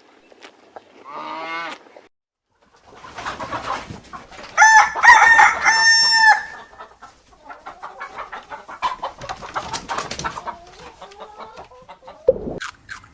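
Chickens: a rooster crowing loudly once, a drawn-out call of about two seconds, with hens clucking before and after it.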